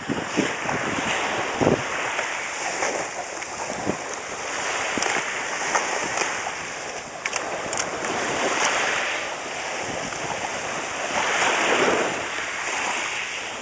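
Sea waves washing onto the shore, swelling and fading every few seconds, with wind on the microphone and a few faint clicks.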